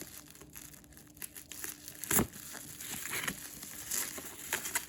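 Plastic bubble wrap crinkling and rustling as it is handled and unwrapped from around a cardboard box, with one sharper crackle about two seconds in.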